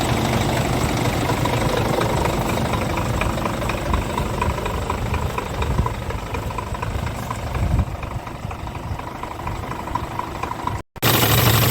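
Scania R450 truck's 13-litre inline-six diesel idling steadily. A short knock comes about eight seconds in, and the sound is a little quieter after it; near the end it cuts out for a moment and comes back louder.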